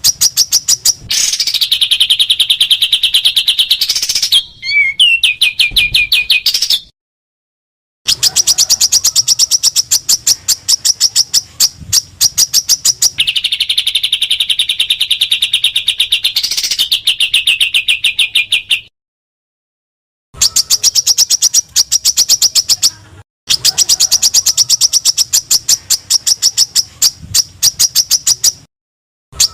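Recorded small-songbird song of the 'tembakan' kind: fast, evenly repeated sharp chip notes, about ten a second, at times joined by a higher sustained trill. It breaks off abruptly into silence three times, as in an edited tutor recording for training caged songbirds.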